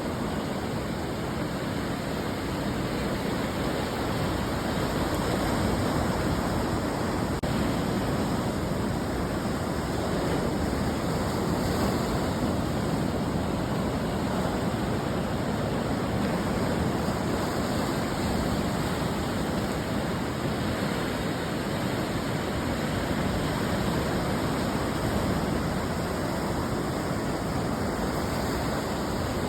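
Ocean surf breaking on a beach: a continuous rushing wash of waves that swells gently louder and softer every several seconds.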